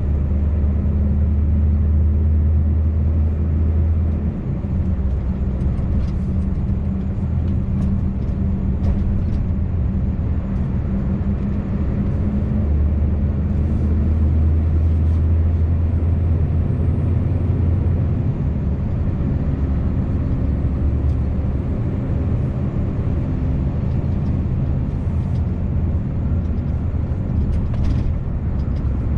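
Scania V8 truck engine running on the road, a steady low drone with tyre and road noise. The drone eases about four seconds in, swells again about thirteen seconds in, and eases once more a few seconds later as engine load changes.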